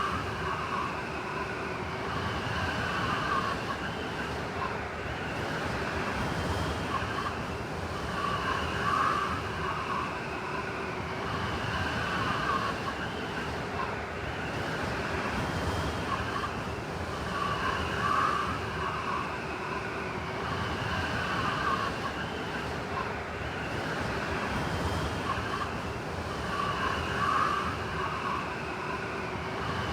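Blizzard wind rushing steadily, with whistling, howling gusts that come back every few seconds.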